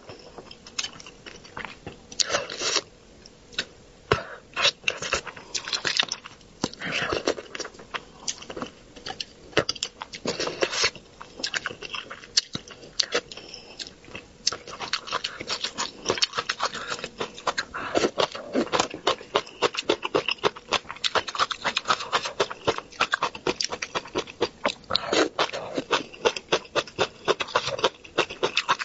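Close-miked eating sounds: chewing and biting on spicy braised fish and bean sprouts, a dense run of irregular wet, crunchy clicks and crackles.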